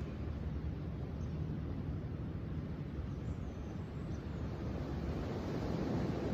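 Steady low rushing outdoor noise that swells louder about five seconds in.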